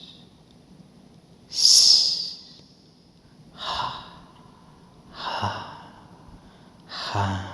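A performer's voice making four breathy, hissing exhalations and sighs, about a second and a half apart. The first is the loudest and sharpest.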